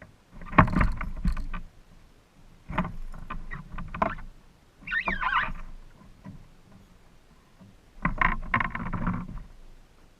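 Handling noise on a kayak on the water: four bursts of knocking, clicking and rattling a few seconds apart, with a short wavering squeak about five seconds in.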